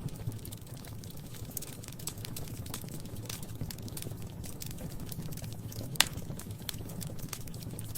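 Wood fire crackling: scattered sharp pops and snaps over a low steady rumble of the flames, with one loud snap about six seconds in.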